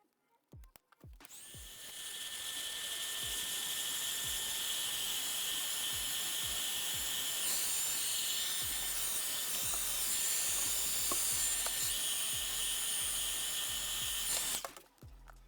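A small electric repair tool running steadily, a high hiss with a thin whine over it. It starts about a second in and cuts off suddenly near the end.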